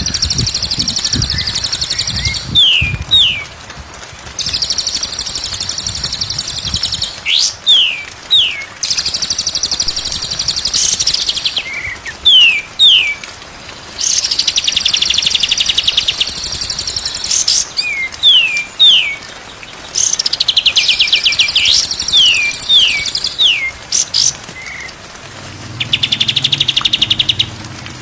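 Songbird singing a repeating phrase: a high, buzzy rapid trill lasting a couple of seconds, then two quick falling whistles, over and over every four or five seconds. A faint low hum joins near the end.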